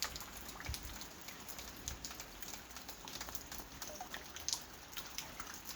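Rain falling, a faint steady patter with many small, irregular raindrop taps on a surface.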